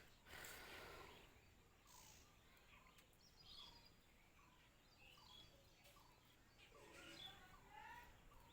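Faint, scattered short chirps from small birds. There is a brief burst of noise about half a second in.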